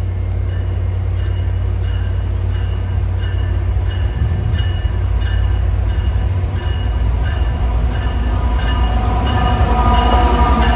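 Train rumbling past, getting louder, with a high-pitched ringing repeated about twice a second. Ringing tones swell near the end as the train comes closest.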